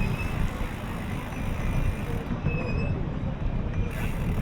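Wind buffeting the microphone of a bicycle-mounted camera while riding, a ragged low rumble mixed with road noise. A couple of faint, short, high squeaks sound over it.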